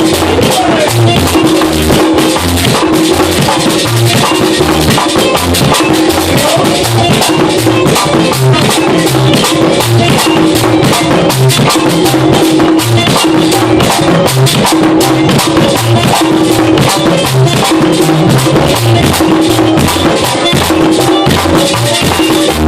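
Dominican merengue típico band playing instrumentally: a güira scraping a fast, steady beat, a tambora drum and electric bass below, and an accordion holding melody notes over them.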